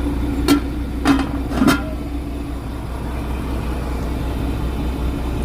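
Fishing boat's engine running with a steady low drone, with three short knocks about half a second apart in the first two seconds.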